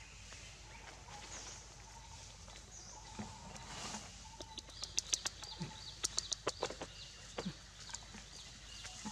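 Birds calling in forest: a faint short call repeated about once a second, with high chirps. A run of sharp clicks comes about halfway through.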